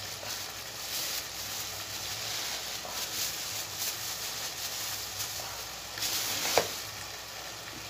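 Onions, tomatoes and green chillies sizzling steadily in hot oil in a non-stick pan, with ginger-garlic paste just added on top. There is a brief louder flare of sizzling and a sharp click about six seconds in.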